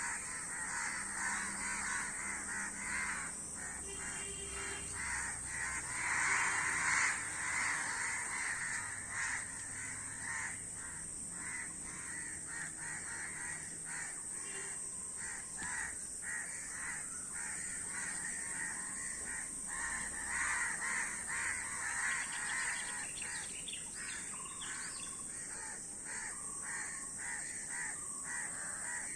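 Many crows cawing at once, a dense, continuous run of overlapping caws that swells to its loudest a quarter of the way in.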